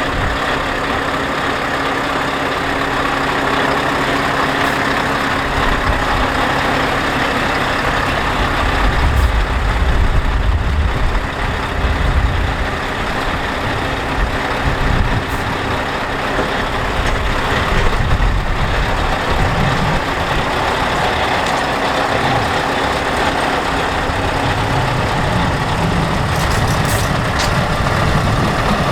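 Scania R730's 16-litre V8 diesel engine running steadily, its low note swelling louder about a third of the way in and again a little past the middle.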